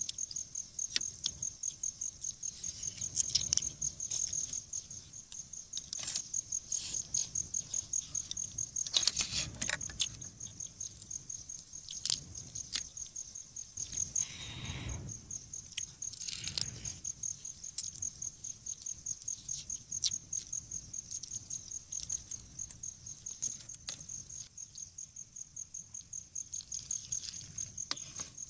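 Crickets chirping in a steady, evenly pulsing chorus, with scattered sharp clicks and knocks and a couple of short soft rushing sounds about a third of the way in and near the middle.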